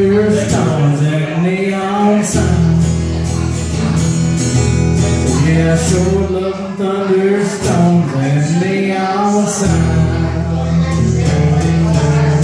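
Acoustic guitar strumming chords of a country song, with a man singing over it.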